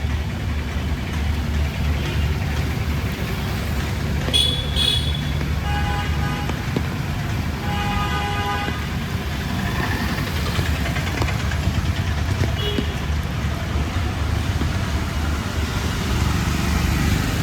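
Street traffic: a steady low rumble of vehicle engines, with a horn honking twice, around six and eight seconds in, and a brief high-pitched toot just before.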